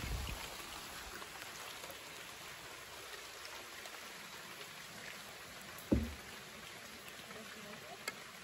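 Light rain falling on a creek's surface and on the wooden dugout canoe, a steady hiss of drops. One short knock about six seconds in.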